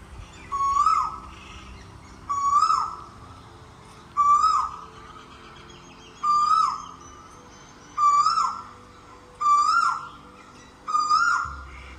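A bird calling over and over, seven times: each call is one note that holds, rises, then drops sharply, about every one and a half to two seconds.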